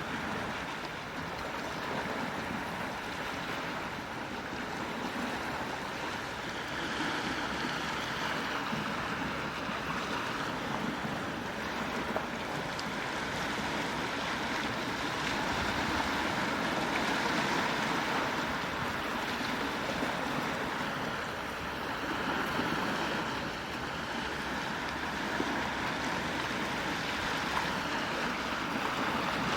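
Gentle sea waves washing on the shore, a steady wash that swells and eases slowly every several seconds.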